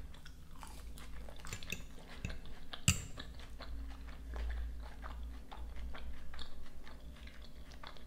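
Close-up chewing of a mouthful of salad, with many small wet clicks of the mouth. A fork strikes the ceramic plate once, sharply, about three seconds in.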